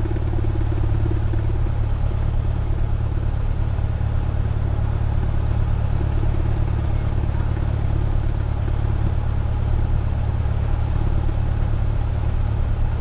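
Cessna 172R's four-cylinder Lycoming engine and propeller running steadily at low taxi power, a constant low drone heard in the cockpit.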